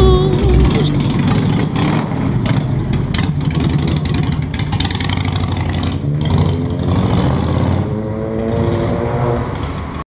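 A vehicle engine running, then revving up with a rising pitch about eight seconds in, before the sound cuts off abruptly.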